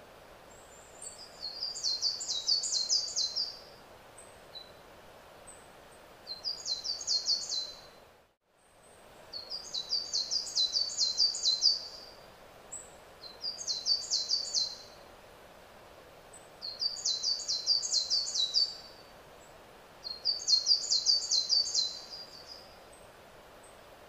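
A songbird singing the same high, rapid phrase of quick descending notes over and over, six times, each phrase lasting about two seconds with a pause of a second or two between, over a steady outdoor background hiss.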